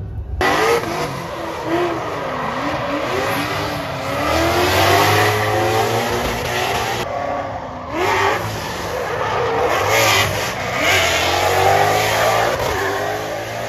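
Drift cars' engines revving hard as they slide, the pitch climbing and falling again and again over a haze of tyre noise. The sound drops out briefly about seven seconds in.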